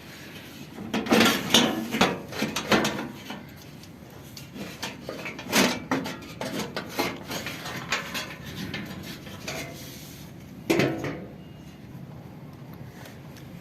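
Irregular metallic clinks and knocks of tools and metal parts being handled while a washing machine is taken apart for a bearing change, in bunches with short pauses between.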